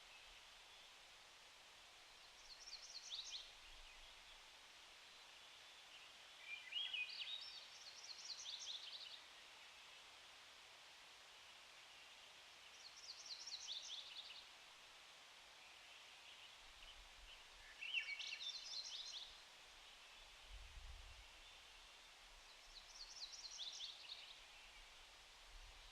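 A songbird repeating a short, high song of quick notes five times, about every five seconds, over the faint steady hiss of creek water.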